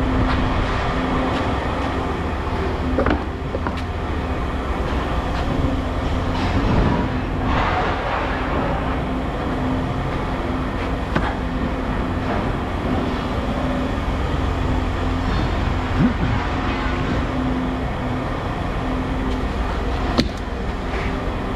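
A large engine running steadily with a deep rumble and a constant hum, and a few short metal knocks scattered through.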